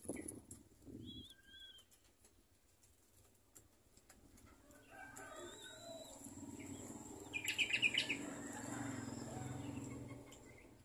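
Bird chirps: a few short high chirps, then a quick run of chirps about three-quarters of the way through, over a low steady hum.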